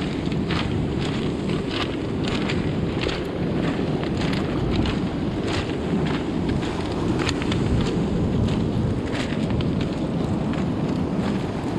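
Wind buffeting the microphone: a steady low rumble, with short irregular clicks or crunches scattered through it.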